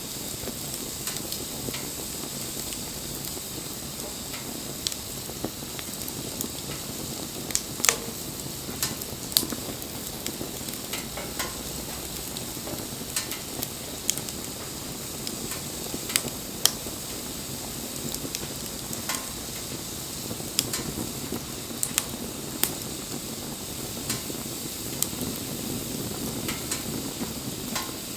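Wood fire burning: a steady hiss with sharp crackles and pops at irregular intervals, roughly one every second or two.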